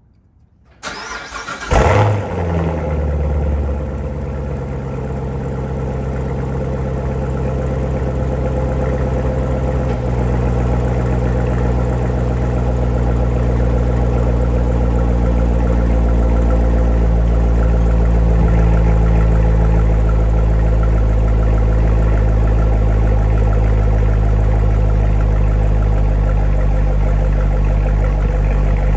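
Chevrolet C7 Corvette Stingray's 6.2-litre LT1 V8 cold-starting after winter storage: a brief crank, then it catches with a loud bark about two seconds in and settles into a steady idle.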